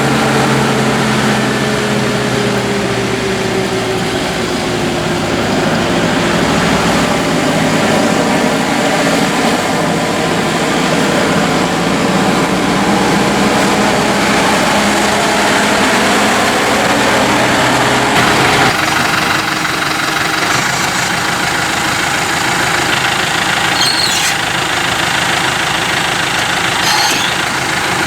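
2015 New Holland T4.75's four-cylinder turbo diesel engine running, its pitch dropping over the first few seconds. The sound changes abruptly about two-thirds of the way through.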